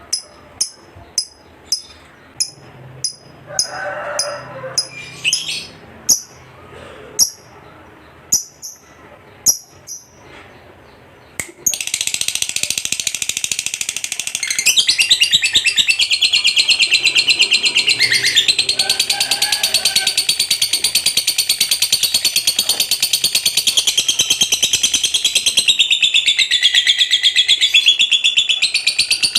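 Lovebird giving single sharp chirps for about the first eleven seconds, then suddenly breaking into a long, loud, unbroken rapid chatter (the 'ngekek panjang' song of a fighter lovebird) that goes on without a pause.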